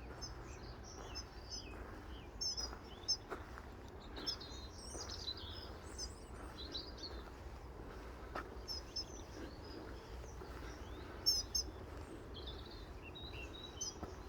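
Small songbirds chirping and calling, many short high notes and brief trills scattered throughout over faint outdoor background noise.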